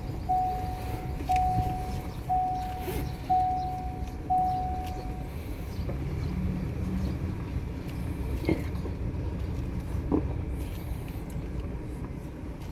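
A machine's warning beeper sounding five times, about once a second, and stopping about five seconds in, over a heavy engine running steadily. A couple of short knocks come later.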